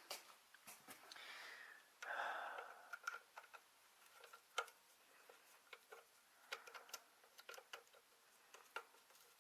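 Faint, irregular clicks and light taps of a screwdriver working the clamp on the air cleaner tube, with a brief rustle about two seconds in.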